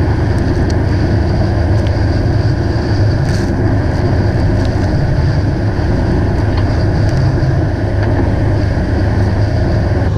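Fishing boat's inboard engine running steadily with a low, even drone.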